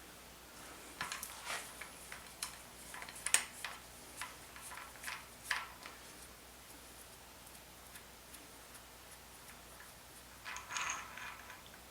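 Irregular light clicks and clinks of hand tools and metal engine parts being handled, with a short scraping burst near the end.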